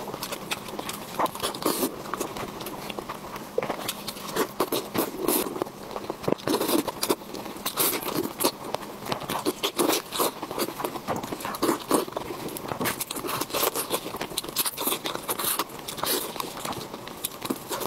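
Close-up eating sounds of roast chicken: wet chewing, lip smacking and meat being torn apart by hand, in a dense run of irregular clicks and smacks.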